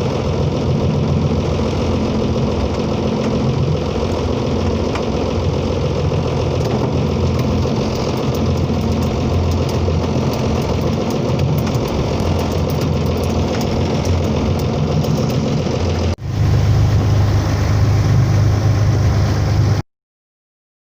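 Motorboat engine running steadily underway. About 16 seconds in it switches abruptly to a louder, deeper drone, and the sound cuts off suddenly near the end.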